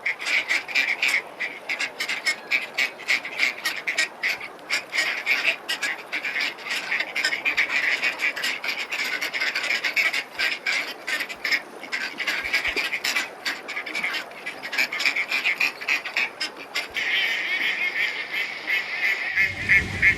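A flock of ducks quacking continuously, with many short calls overlapping in a steady chatter.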